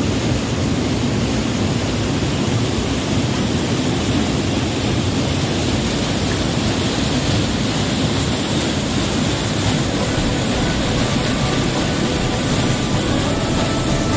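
Steady roar of a waterfall: loud, even rushing water with no breaks.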